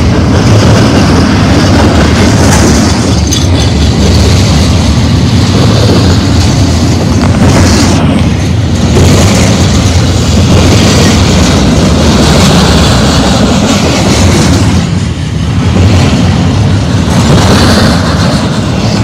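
Loaded double-stack intermodal well cars of a freight train rolling past close by: a loud, steady rumble of steel wheels on the rails.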